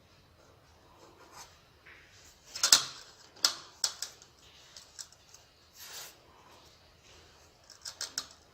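Tile-setting work: scattered scrapes, taps and clicks of tools and tiles being handled. The loudest is a sharp scrape-knock a little under three seconds in, and a cluster of quick clicks comes near the end.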